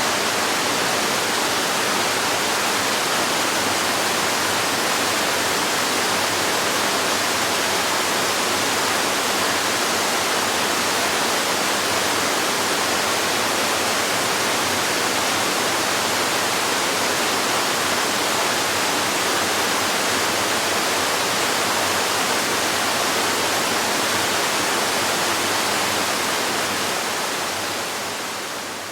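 Waterfall rushing in a steady, dense wash of falling water, fading out over the last few seconds.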